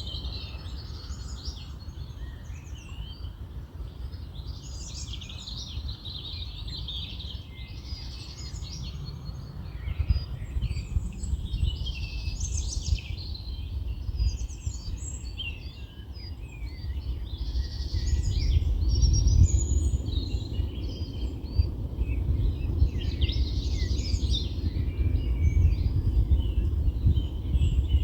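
Several small birds singing and chirping over a low rumble of wind on the microphone, which grows stronger in the second half.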